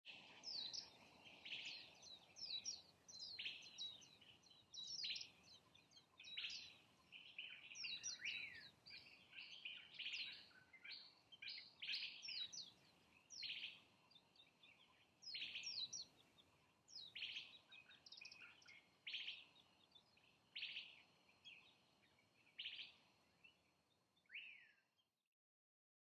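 Wild birds chirping and calling: a busy run of short, quick chirps, thinning out and fading away near the end.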